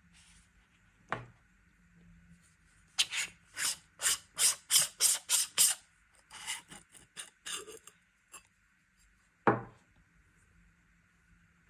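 A wristwatch handled close to the microphone. A sharp knock comes about a second in, then a run of about ten quick rasping strokes, a second looser run of rasps, and another sharp knock near the end.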